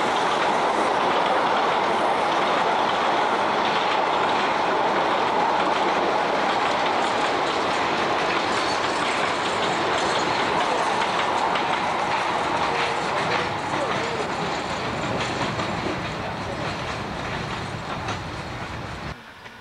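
Narrow-gauge railway coaches rolling past on the track, their wheels clattering over the rail joints. The noise fades in the last few seconds as the train moves away, then cuts off.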